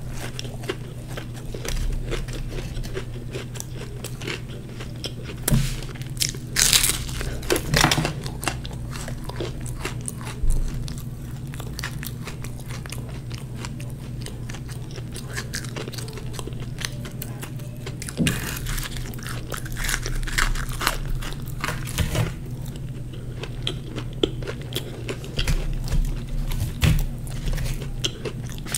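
Close-miked chewing and crunching of fried samosa, short crackles of the pastry with louder crunchy bites now and then.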